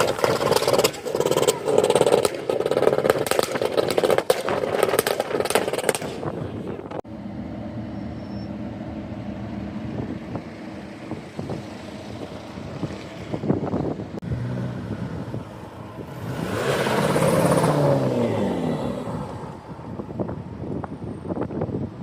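Loud rough wind buffeting on the microphone for the first six seconds, then car engines. About three quarters of the way through, one car drives past close by, swelling in level with its engine note falling as it goes.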